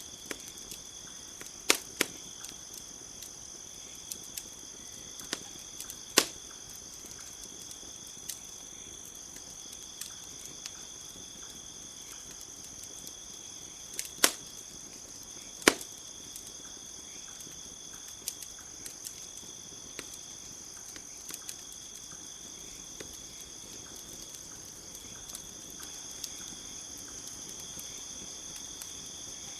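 Campfire crackling, with sharp pops every few seconds, the loudest a handful of louder snaps. Under it, a steady high chirring of crickets.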